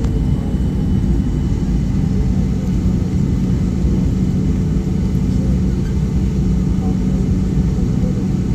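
Steady low rumble of a Boeing 737-800 cabin, heard from inside, as the aircraft taxis on the ground with its CFM56 engines at idle, under a constant low hum.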